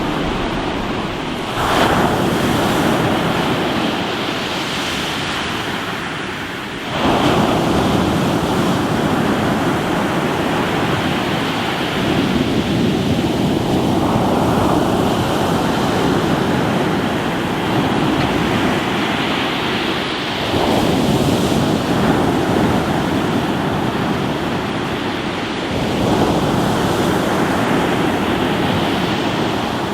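Sea waves breaking and washing over a rocky shore, a continuous rush of surf that swells as waves break, about 2 and 7 seconds in and again several times later. Wind buffets the microphone.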